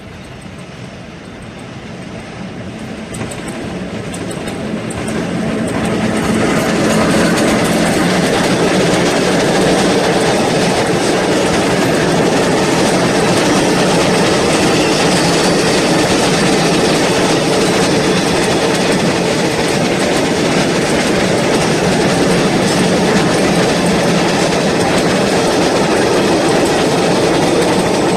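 A train approaching and passing close by, its wheels clattering over the rail joints. The sound builds over the first seven seconds, then stays loud and steady as the cars roll past.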